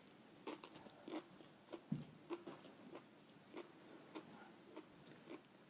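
Mouth-close chewing of raw cabbage leaf: faint, crisp crunches repeating about every half second.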